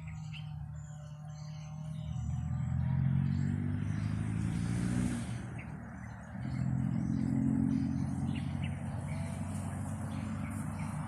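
A motor vehicle's engine running past, its low hum swelling twice, with small birds chirping faintly above it.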